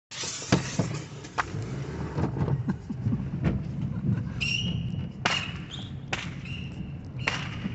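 Fireworks going off: a string of sharp bangs and pops at irregular intervals, about eight in all. In the second half there are brief high steady whistling tones.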